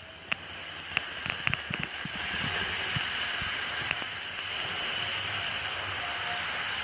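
Märklin model electric locomotive running on its track: a steady high motor whine over a low rumble, with irregular sharp clicks from the wheels over the rails, most of them in the first few seconds.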